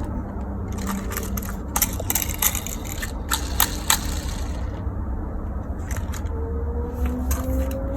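Handling noise: scattered light clicks and rattles over a steady low rumble.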